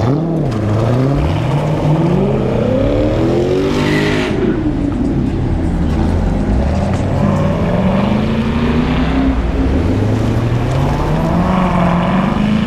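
Chevrolet Camaro V8 with a loud aftermarket exhaust being driven hard, the engine note climbing in pitch and dropping back about three times.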